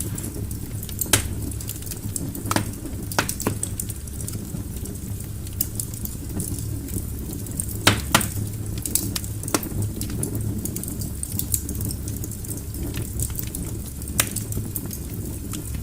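Wood fire burning in a fireplace: a steady low rumble of flames with irregular sharp crackles and pops from the burning logs, the loudest pops about a second in and around eight seconds in.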